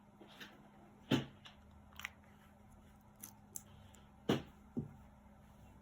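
A handful of light, separate clicks and taps of a necklace's beads and clasp being handled, the loudest about four seconds in.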